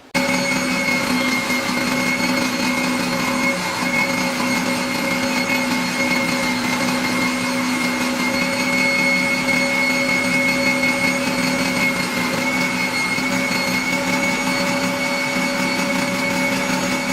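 Electric woodworking power tool motor running steadily at full speed, with a steady high whine over a dense rushing noise.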